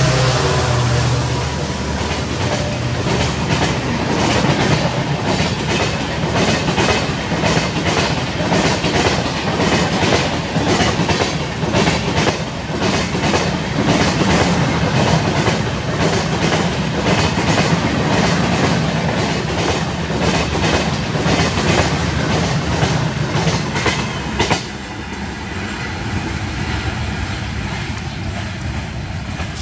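Express train of LHB coaches passing at speed. Its wheels clack rhythmically over the rail joints, and a low diesel locomotive engine drone fades in the first second. About 24 seconds in the last coach goes by, and the sound drops suddenly to a fainter rumble as the train moves away.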